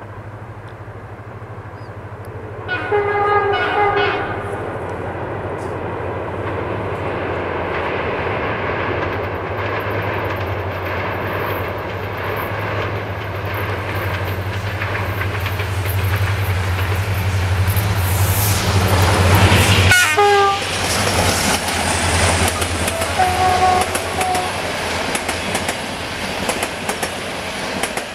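Diesel locomotive hauling passenger coaches approaches and sounds its horn about three seconds in. Its low engine drone grows louder until it passes, with another horn blast as it goes by. The coaches then roll past with wheel clatter and a shorter, fainter horn note near the end.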